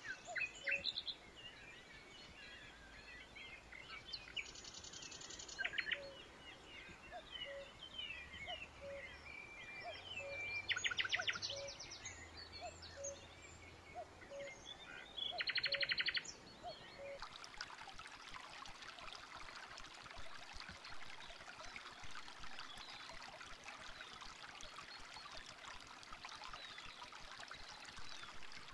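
Wild songbirds chirping, with three short rapid trills. About halfway through, the steady babbling of a shallow stream takes over.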